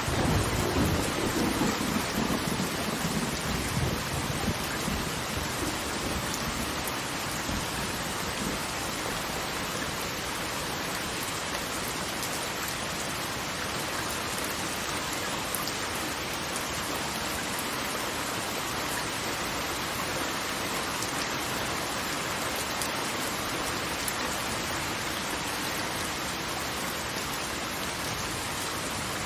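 Steady, even hiss of heavily falling water. A louder low rumble rolls in at the start and fades out over the first five seconds or so.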